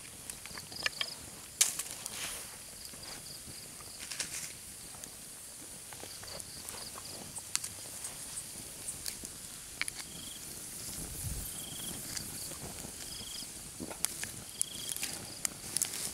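Night insect chorus: a steady high-pitched buzz. From about ten seconds in there are short repeated chirps roughly every second and a half, with scattered sharp clicks and crackles throughout.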